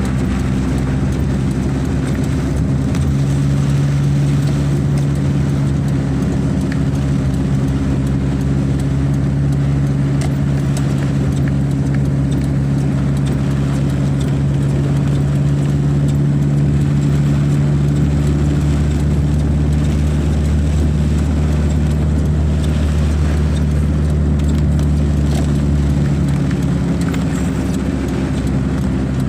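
A motor vehicle's engine running steadily with a low, even hum, its pitch shifting slightly twice.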